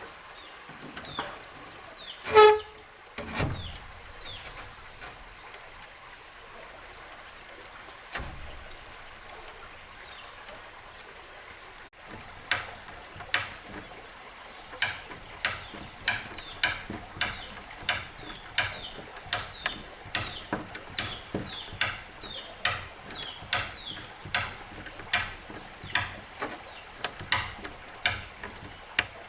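A hand tool striking wood in a steady rhythm, a little under two blows a second, starting about halfway through. Earlier there is one loud, ringing knock a couple of seconds in.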